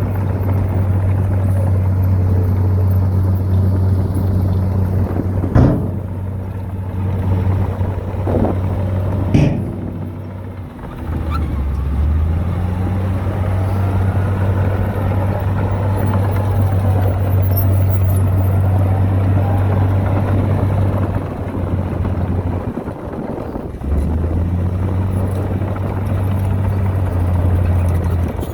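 Heavy earthmoving machine's diesel engine running steadily under load, with two sharp metallic clanks in the first ten seconds. The engine note drops briefly twice and a faint wavering whine rises and falls in the middle.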